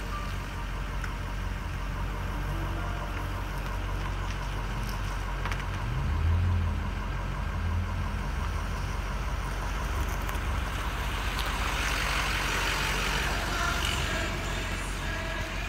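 Car engine idling, a steady low hum, with a hissing noise that swells about eleven seconds in.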